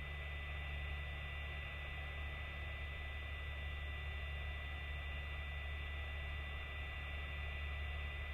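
Steady low electrical hum with a constant hiss and a thin high whine, unchanging throughout.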